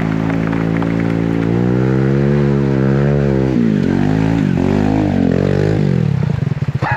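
Trail motorcycle engine running at a steady note for a few seconds, then revved up and down several times in quick swells before easing off.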